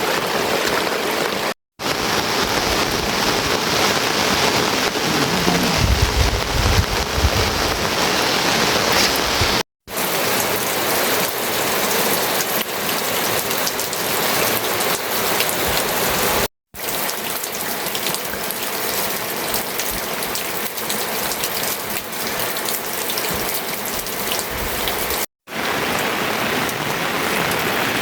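Steady heavy rain falling, a dense hiss of many small drop ticks. It cuts out to silence for a moment four times.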